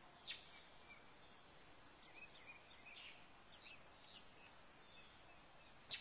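Faint, high chirps of unseen small birds, scattered through the middle, with two sharper, brief chip notes about a third of a second in and near the end, over a quiet outdoor hiss.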